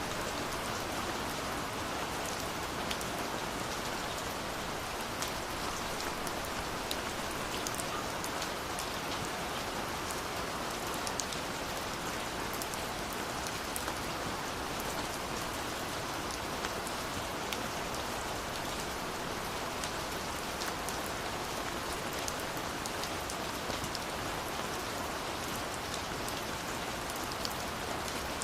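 Steady rain falling, with the scattered tick of individual drops.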